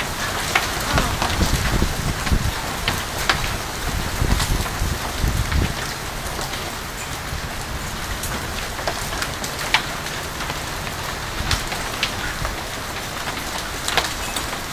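Hailstorm: a steady patter of hail and rain on surfaces, with scattered sharp knocks as individual hailstones strike.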